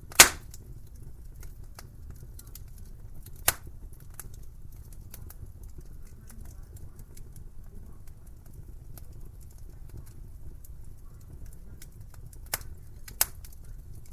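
Wood fire in a fireplace crackling, with a steady low rumble and scattered small ticks. A few sharp pops stand out: a loud one just after the start, another about three and a half seconds in, and two close together near the end.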